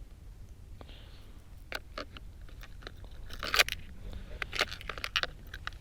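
Fishing tackle being handled: irregular small clicks and rattles as a metal jig is picked out and sorted among hard plastic and metal gear, busier in the second half.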